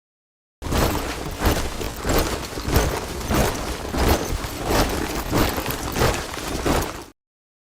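A troop of soldiers marching in step, boots striking the ground together in a regular tramp about one and a half times a second. It starts about half a second in and cuts off suddenly about seven seconds in.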